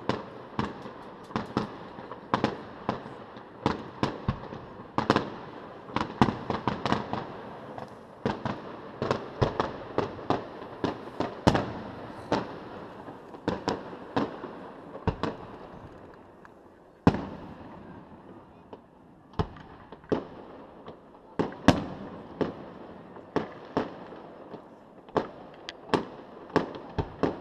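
Fireworks display: a rapid, irregular series of shells bursting with sharp bangs, each trailing off in an echo. There is a brief lull about two-thirds of the way through, broken by a single loud bang, and then the bursts pick up again.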